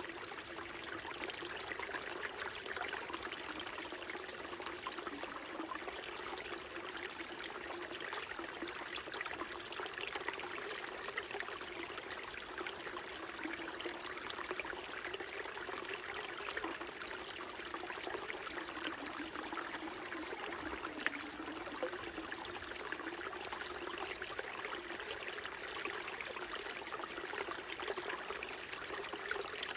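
Small mountain stream trickling and babbling over rocks, a steady, unbroken flow of water.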